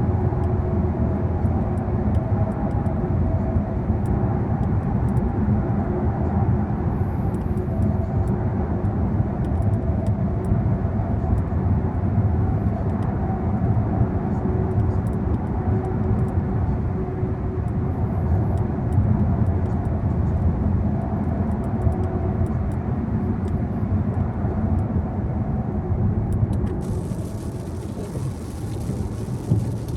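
Steady road noise of a moving car heard from inside the cabin: a low rumble of tyres and engine with a faint hum. Near the end a brighter hiss suddenly joins in.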